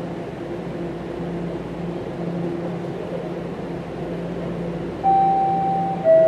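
Toronto subway train standing at a station platform with a steady hum from its equipment. About five seconds in, the door-closing chime starts: a clear tone, then a second, lower one just before the end, a falling series that warns the doors are about to close.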